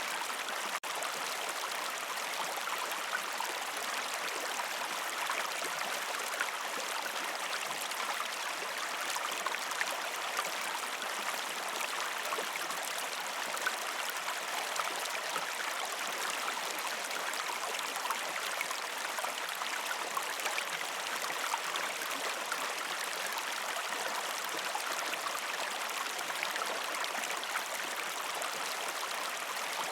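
A river stream flowing steadily over rocks: a constant rushing of water with fine bubbling texture. There is a momentary dropout about a second in.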